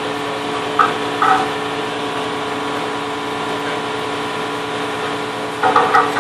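Aerial ladder truck's engine running steadily with a constant hum holding a few fixed pitches. A few brief sharper sounds come about a second in and again near the end.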